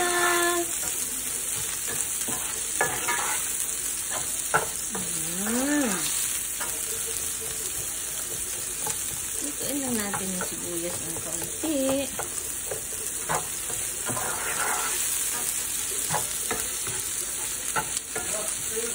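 Garlic and onion sizzling in hot oil in a nonstick frying pan, with a plastic slotted spatula scraping and tapping against the pan as it stirs. A few short gliding tones rise and fall near the start, around five seconds in and again around ten to twelve seconds.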